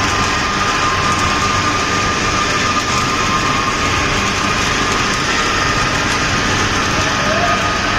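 Steady, loud machinery noise from a spiral pipe mill running during submerged arc welding, an even drone with a faint steady whine and a low hum.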